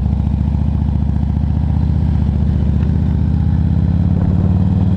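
Harley-Davidson Ultra Classic Electra Glide's V-twin engine running steadily under the rider.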